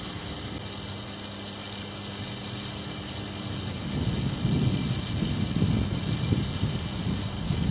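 Corona discharge hissing and crackling steadily off 220 kV transmission line conductors, brought on by drizzle wetting the lines, with a faint low electrical hum under it. From about halfway a louder, gusty low rumble comes in over it.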